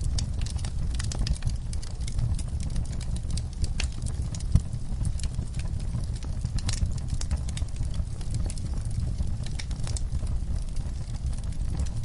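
Wood fire in a fireplace, crackling and popping irregularly over a low steady rumble of the flames, with one sharper pop about four and a half seconds in.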